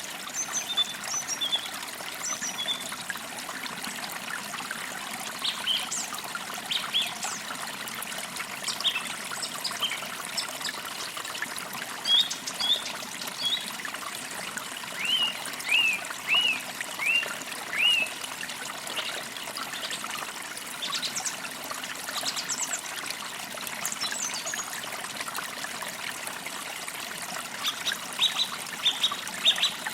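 Forest creek trickling steadily, with songbirds chirping over it: scattered short high calls, a run of about six arched notes about halfway through, and a quick cluster of chirps near the end.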